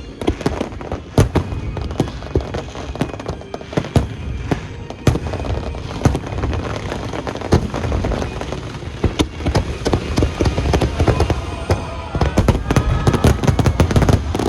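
Aerial fireworks display: rapid, irregular bangs and crackles that grow denser near the end, with music playing underneath.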